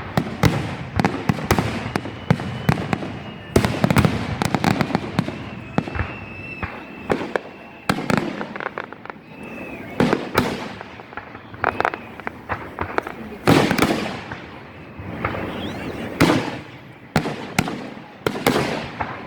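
Large aerial fireworks bursting overhead, a fast irregular string of loud bangs with rumbling echoes and crackle between them, and a thin high whistle held for several seconds in the first half.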